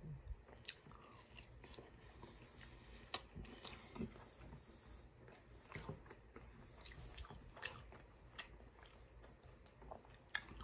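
Faint biting and chewing of a breaded chicken strip, with irregular small mouth clicks scattered throughout.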